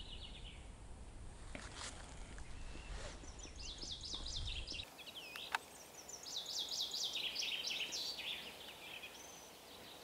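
Songbirds singing faintly in quick phrases of high notes, one phrase falling in pitch over about two seconds. A low rumble under the first half stops abruptly about halfway through.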